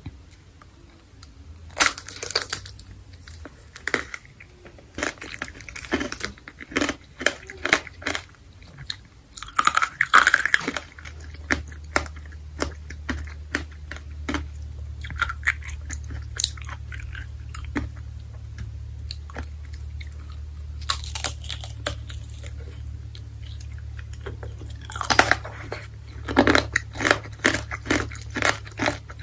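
Close-miked biting and chewing of candied fruit with a hard sugar coating: bouts of sharp, crackly crunches separated by quieter pauses.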